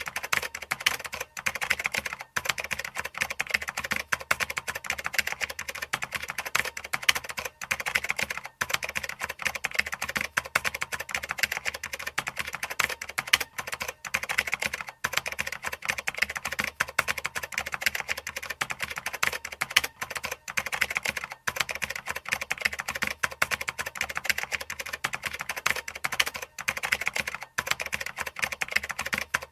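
Fast, continuous typing on a computer keyboard: a dense run of key clicks with a few brief pauses.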